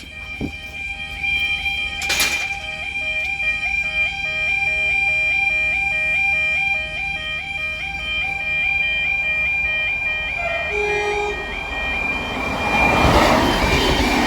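Level crossing alarm sounding: a flat-toned, warbling yodel alarm stepping between two pitches about three times a second over a steady high tone. Near the end a loud rush of noise builds, as of a train passing over the crossing.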